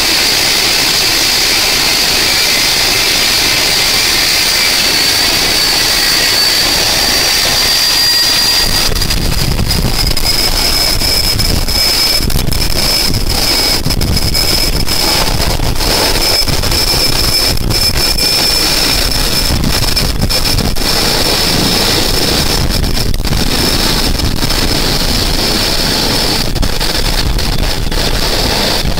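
Helicopter turbine engine running with a steady high-pitched whine that dips slightly in pitch early on and then holds. From about a third of the way in, wind buffets the microphone with a gusty low rumble.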